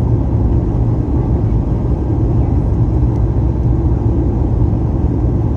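Steady low rumble inside the cabin of a Boeing 737 MAX 8 airliner, the engines and airframe running evenly with no change.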